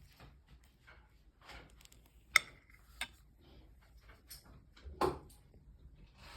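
Kitchenware being handled: scattered light taps and clicks, with one sharp ringing clink a little over two seconds in and a duller knock near five seconds.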